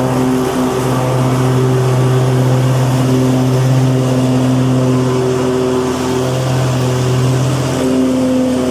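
Lawnmower engine running at a steady speed, its pitch wavering slightly now and then.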